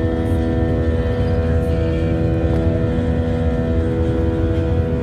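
Airplane engines droning steadily during the climb: a constant low rumble with several fixed humming tones over it.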